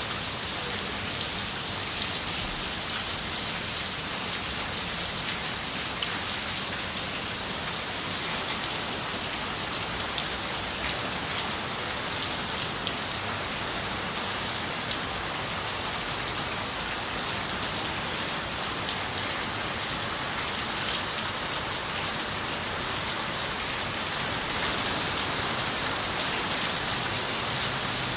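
Steady rain falling and pattering on a window, an even hiss with scattered sharper drop ticks, growing a little heavier near the end.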